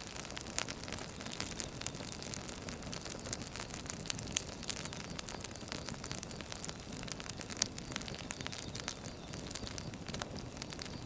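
Firewood burning with irregular sharp crackles and pops over a steady low hiss of the fire, one pop louder than the rest a little before halfway.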